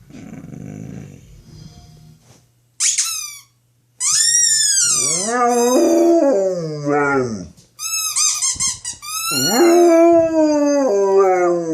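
Large dog, a mastiff–Labrador mix, howling at the sound of his football toy: a short high call, then two long howls about four and nine seconds in, each wavering and then falling in pitch.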